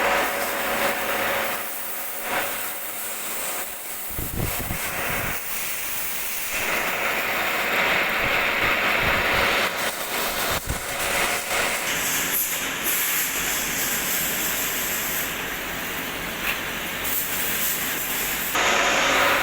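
Metal lathe running with the cutting tool working a spinning workpiece: a steady hissing cut that gets louder about six seconds in and again near the end, with a few low thuds.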